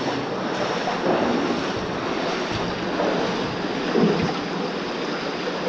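Steady rushing and splashing of water in a flooded slate-mine tunnel.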